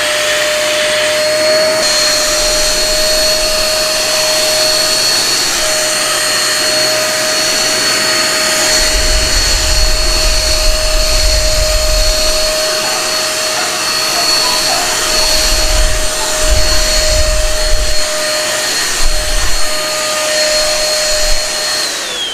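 Nikai NVC320H1 600 W stick vacuum cleaner running with its crevice tool on, a steady high whine as it sucks up cracker crumbs, with low bumps and rattles in the second half. It is switched off near the end and the whine falls away.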